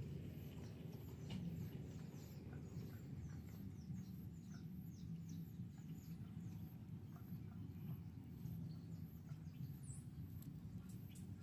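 Society finches chirping faintly: a run of short, high chirps, each falling in pitch, about two or three a second, thinning out in the second half, over a low steady rumble.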